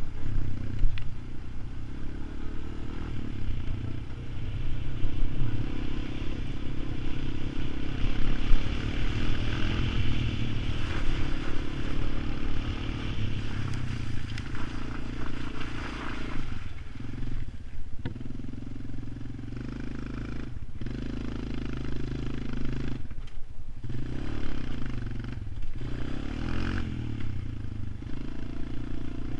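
ATV engine running, its note steady at first, then dipping and easing off briefly several times in the second half.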